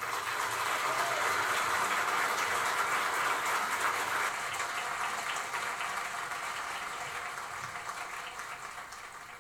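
Applause: many hands clapping, starting as the music stops and slowly dying away toward the end.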